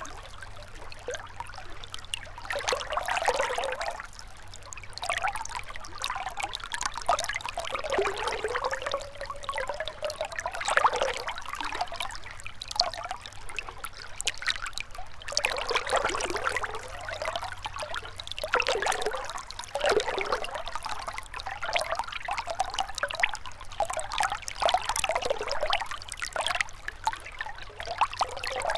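Gentle river water flowing and trickling, with irregular gurgles and splashes that swell and ebb.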